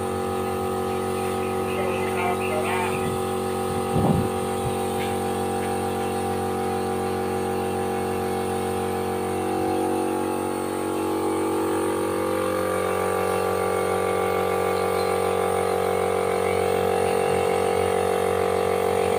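A steady machine hum, like a running electric motor. Its pitch steps up somewhere between ten and thirteen seconds in, and there is a short knock about four seconds in.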